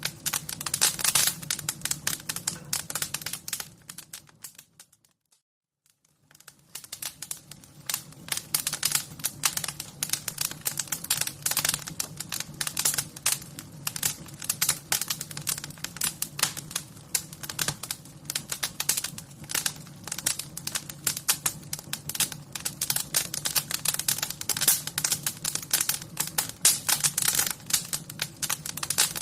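Crackling fire: dense, irregular pops and crackles over a low steady hum. It fades out to silence about five seconds in and fades back in over the next couple of seconds.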